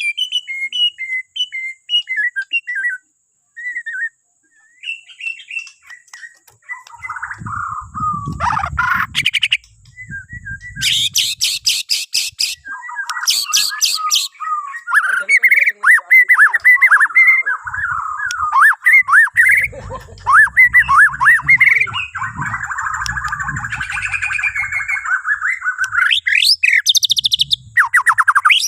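Bornean murai batu (shama) singing a long, varied song of gliding whistles and harsh chattering notes, broken by very fast high rattling trills. Faint low rumbling runs underneath at times.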